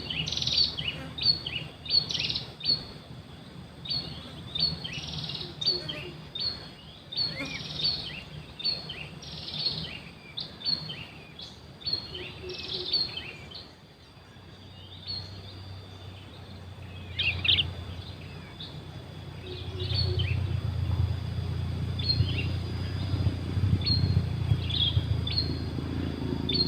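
A songbird locally called berenjak singing a quick run of short, high chirps and falling notes, dense at first and sparser after about halfway. A low rumble of background noise builds up in the second half.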